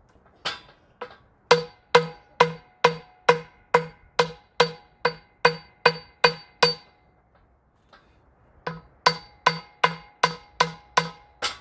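Metal tool striking metal parts during transmission work: sharp ringing taps, about two a second, in a long run of a dozen or so. After a short pause comes a second run of about seven.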